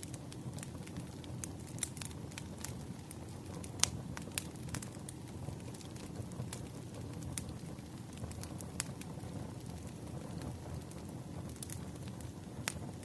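Wood fire crackling: irregular sharp pops and snaps over a low steady background, with a louder pop about four seconds in and another near the end.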